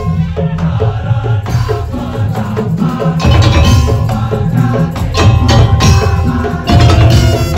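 Madurese daul (tongtong) music played loudly by a percussion ensemble: heavy drum beats under wooden knocking and a pitched melody line.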